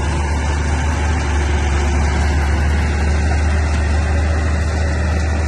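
Bulldozer's heavy diesel engine running steadily, with a strong low hum.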